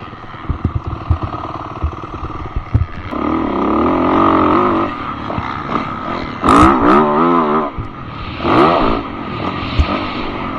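Dirt bike engine revving up and down in repeated swells, heard through a helmet-mounted camera. Knocks and clatter come in the first few seconds.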